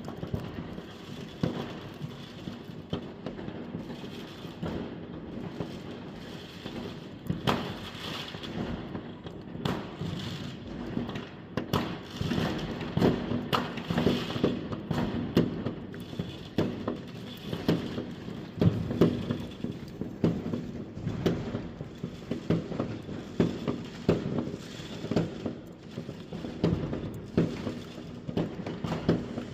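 New Year's Eve fireworks and firecrackers going off, with many overlapping bangs and cracks that come thicker and louder from about twelve seconds in.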